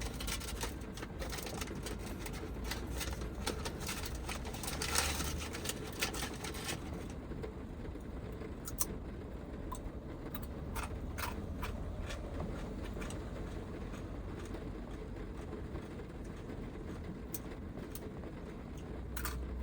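Rain pattering on the roof of a Toyota HiAce van, heard from inside: a steady wash of rain with a dense run of sharp drop-clicks in the first few seconds, thinning to scattered drips after that.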